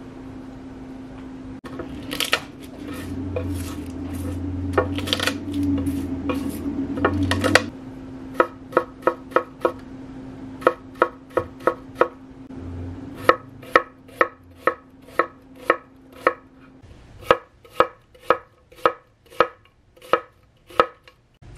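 Knife chopping on a cutting board: a quick, dense flurry of strokes, then even, separate strokes about two a second.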